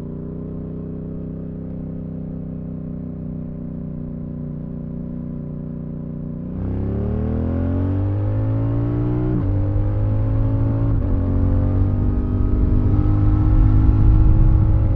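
Yamaha R7's CP2 parallel-twin engine through an IXIL Dual Hyperlow exhaust with the dB killer fitted, running at steady revs, then opening up hard about halfway through. The pitch climbs, drops sharply twice as it shifts up, and climbs again to its loudest near the end.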